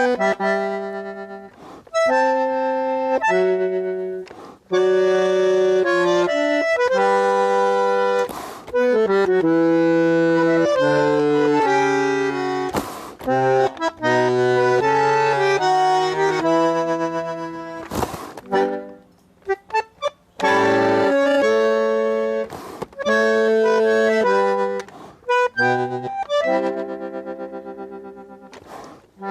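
Accordion playing a tune in held chords and melody phrases, breaking off briefly a few times between phrases.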